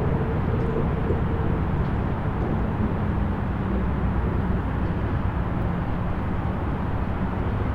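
Steady rumble of distant highway traffic heard from near the waterfront, a dense low wash of tyre and engine noise with a faint engine drone that fades about a second in.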